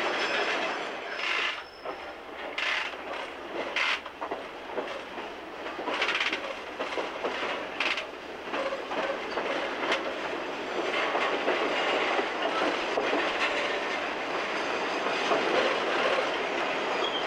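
Open passenger car of an excursion train riding behind a Shay geared steam locomotive: steady clatter and rumble of wheels on the rails. A few short, sharp clanks and a brief squeal come in the first half.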